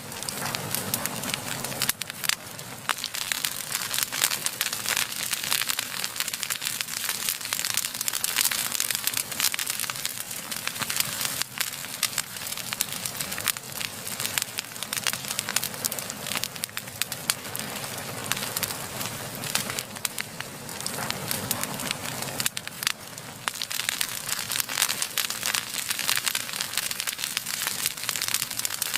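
Wood fire burning and crackling steadily, with dense small snaps over the low sound of the flames.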